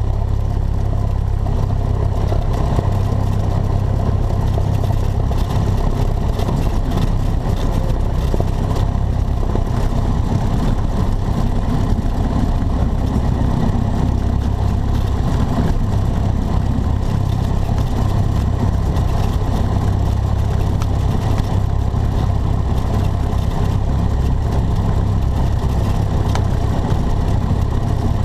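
Single-engine piston airplane's engine and propeller running steadily, a constant low drone.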